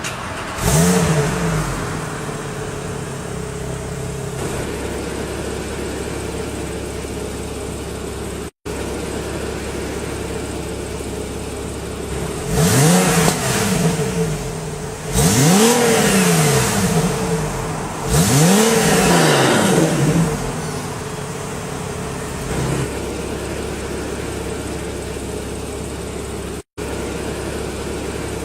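Porsche 997.2 flat-six engine through an Armytrix valved aftermarket exhaust, idling steadily with a short rev just after the start, then three free-revving blips in a row in the middle, each rising and falling in pitch, before settling back to idle.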